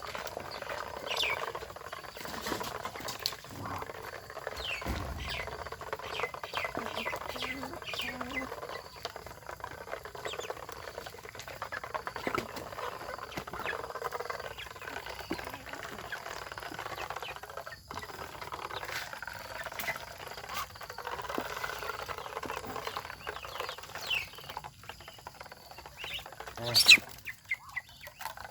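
A family of ducks feeding: many short high-pitched peeps over a steady busy patter of pecking and dabbling, with one sharp loud snap near the end.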